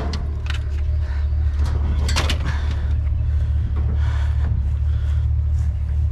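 A vehicle engine idling with a steady low hum, with a few light clanks and rattles on top, the loudest about two seconds in.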